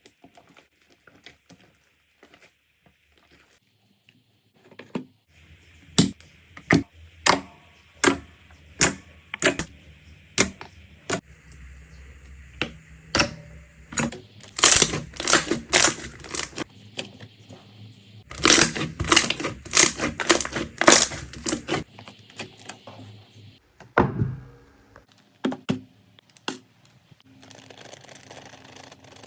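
Slime being pressed and squeezed by hand, making sharp pops and clicks: first a steady run of about two a second, then faster, louder clusters of popping, and a single duller knock near the end.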